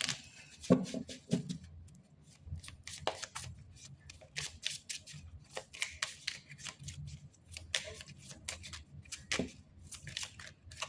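Tarot cards being shuffled and handled: many quick, irregular flicks and light snaps of card stock.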